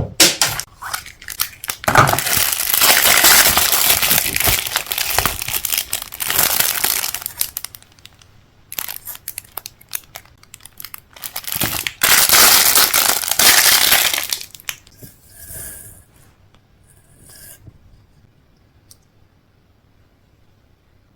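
Food packaging crinkling and tearing close up, in two long spells with scattered crackles between, dying away to a few faint ticks over the last several seconds.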